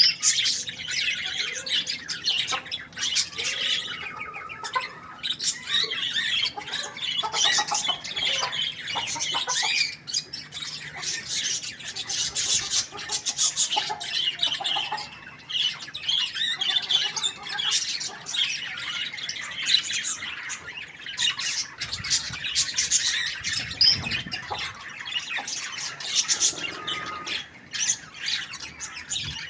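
Many birds calling at once, a dense, continuous chatter of squawks and chirps.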